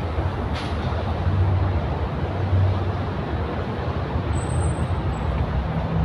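An engine running steadily: a low hum with a rushing noise over it, and a brief faint high whine about four seconds in.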